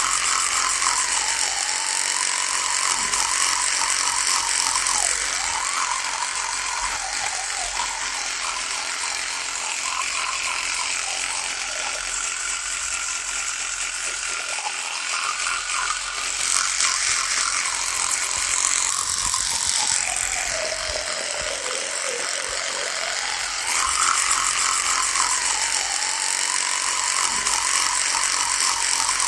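Electric toothbrush buzzing continuously, its pitch sagging and rising again every few seconds.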